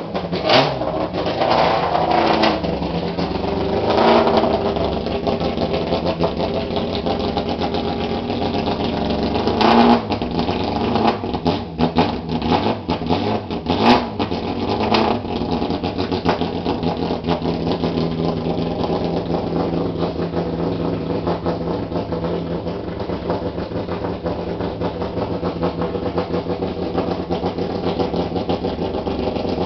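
BMW E46 M3 race car engine revved sharply several times in the first half, then running steadily at an even pitch.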